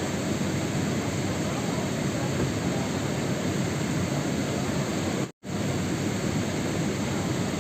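Steady rain noise, an even hiss with a low rumble, that cuts out to silence for a split second about five seconds in and then resumes.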